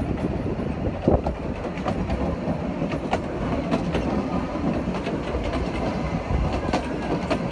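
Passenger carriage of a steam-hauled train running along the track, heard from on board: a steady rumble with occasional sharp clicks of the wheels over the rail joints.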